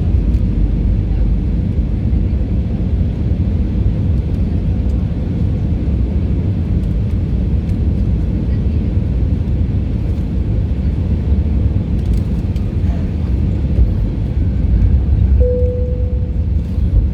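Steady low rumble of airliner cabin noise from the engines and airflow during the descent to land. A single steady tone sounds for about a second near the end.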